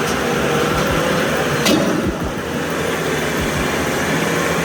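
Heavy haulage vehicle's engine running steadily under a constant rush of noise, with one sharp click about a second and a half in.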